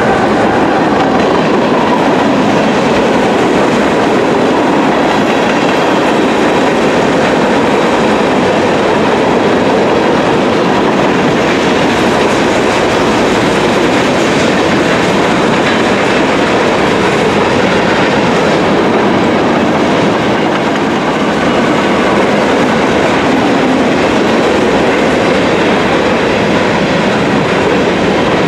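Freight cars of a BNSF train, boxcars and covered hoppers, rolling past close by: a steady, loud noise of steel wheels on rail.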